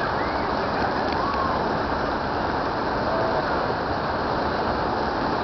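Steady rush of churning water in a river rapids ride's channel.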